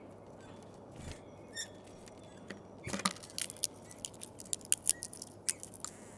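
Sharp, irregular clicks and taps at a bird feeder: Eurasian bullfinches pecking at and cracking sunflower seeds. The clicks come thick and fast from about three seconds in, after a few scattered ticks.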